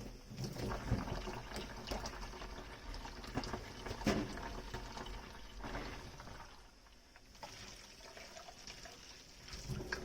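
Water from a kitchen tap running and splashing while dishes are washed by hand, with irregular clinks and knocks of tableware. Busier in the first six seconds, quieter toward the end.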